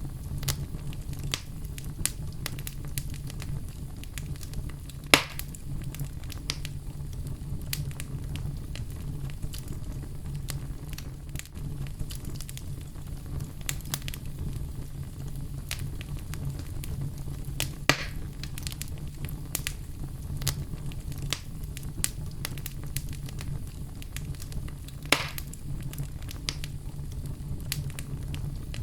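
Wood fire burning in a fireplace: a steady low rumble of flames under constant small crackles, with three louder pops about five, eighteen and twenty-five seconds in.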